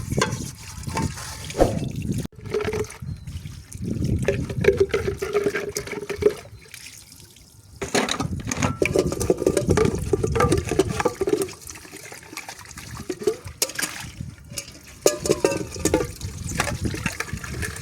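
Water running and splashing while dishes are washed by hand, with scattered clinks and knocks of dishes. The flow drops away briefly about seven seconds in, then resumes.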